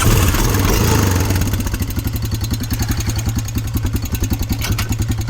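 ATV engine running, smoother and higher for the first second or two, then settling into a steady, fast idle putter.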